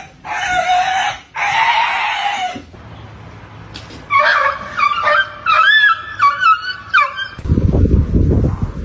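Pets crying out: three long, harsh yowls in the first few seconds, then a run of short, high, wavering whines and yelps, then a low rumbling noise near the end.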